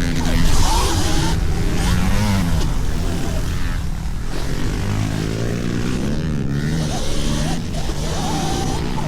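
Several small dirt-bike motors revving up and down at once, their pitch rising and falling throughout, over a steady rush of noise.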